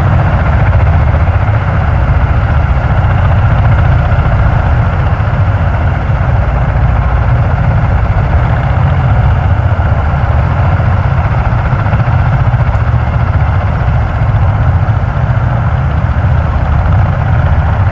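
V-22 Osprey tiltrotors running on the ground with their proprotors turning: a loud, steady, low rumble that throbs rapidly.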